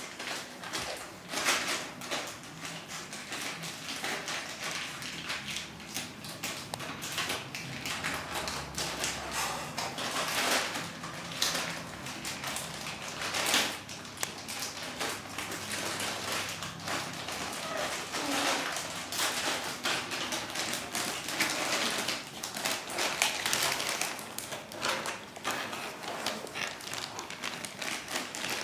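Chihuahua puppies scuffling about at play: a steady run of irregular light taps and scratches with now and then a small thump.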